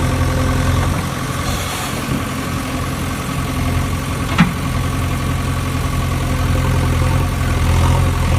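Engine running steadily at idle, a low even hum, with a single short click about four seconds in.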